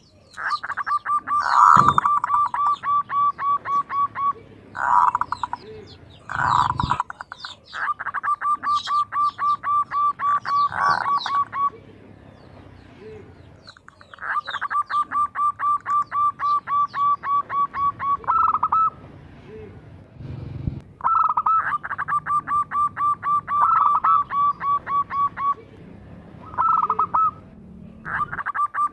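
Zebra dove singing: repeated runs of rapid, evenly spaced coo notes, about four a second, each run lasting a few seconds with short pauses between, with fainter high chirps above.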